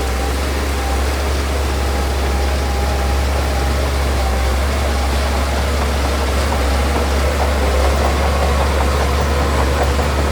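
Diesel engine of heavy earthmoving machinery running steadily with a deep rumble. A fast, rapid clatter joins in from about seven seconds in.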